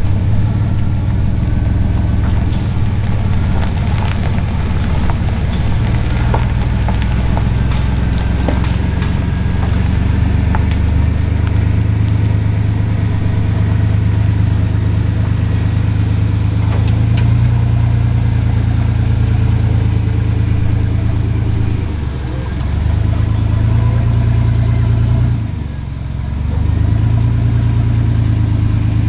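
Truck engine running steadily at low revs while slowly towing a car. It eases off briefly twice near the end.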